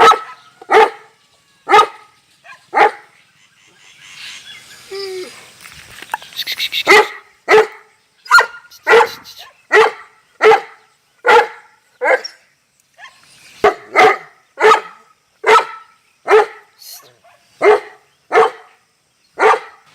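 Bully dog barking repeatedly in single short barks, about one a second, with a pause of a few seconds after the first four barks.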